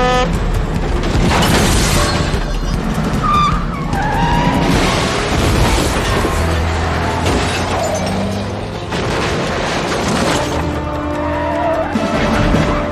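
Film action-chase soundtrack: orchestral score over car and truck engines, with tyre squeals a few seconds in and loud crash-like bursts.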